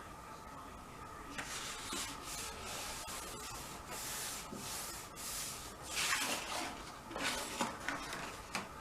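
Thick card being folded and creased along a ruler edge: paper rubbing and scraping in a series of strokes that start about a second and a half in and grow louder near the end.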